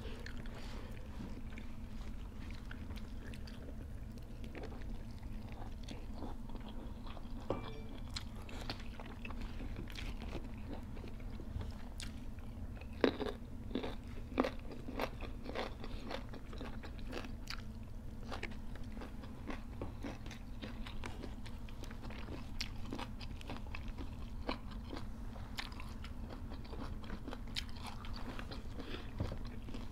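Two people eating close to the microphone: chewing and crunching mouthfuls of food, with scattered small clicks and a few louder crunches about thirteen to fifteen seconds in, over a steady low hum.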